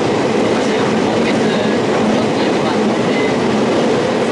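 Onboard running noise of a Kobe Electric Railway 5000 series electric train with Mitsubishi GTO inverter drive, heard inside the passenger car: a steady rumble of wheels and running gear on the track.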